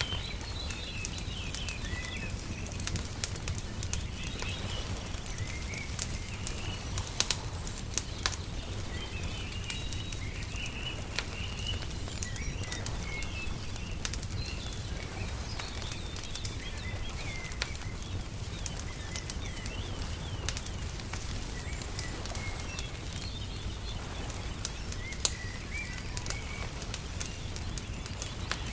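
Nature ambience of small birds chirping on and off, mixed with the crackle and occasional sharp pops of a wood fire, over a steady low rumble.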